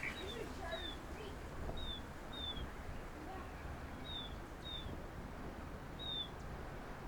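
A songbird giving short, high, downward-slurred chirps, mostly in pairs, repeated every second or two over a steady low background hum.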